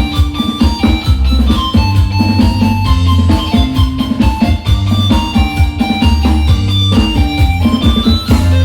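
Electronic organ and drums playing an instrumental piece together, with a pulsing bass line and frequent drum hits under the keyboard melody.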